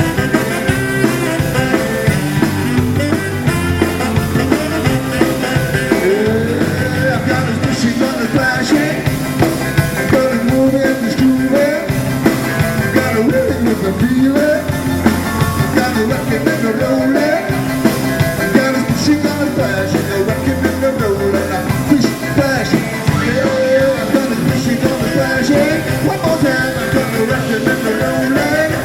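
Rock and roll band playing live: a fast number with a steady drum beat and a lead part that bends and slides between notes, with no lyrics sung.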